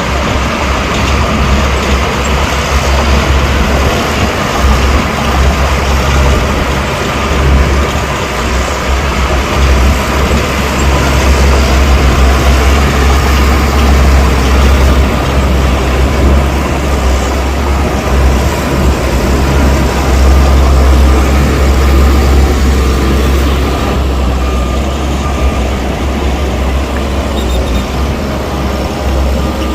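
Heavy diesel earthmoving machinery running: a loud, steady, deep engine rumble with a broad mechanical noise over it.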